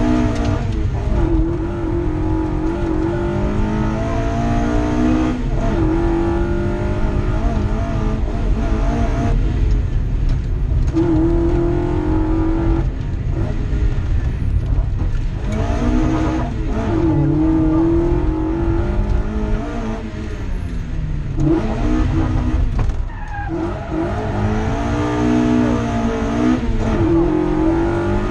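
Mazda MX-5's four-cylinder engine heard from inside the cabin, driven hard on a rally stage: it revs up, then drops in pitch at each gear change or lift, over and over.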